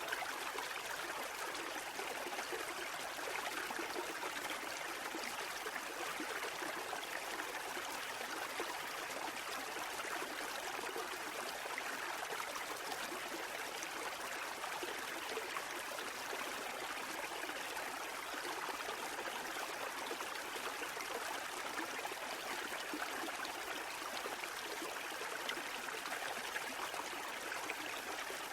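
Steady rushing water: an even, unbroken hiss with no rise and fall of individual waves.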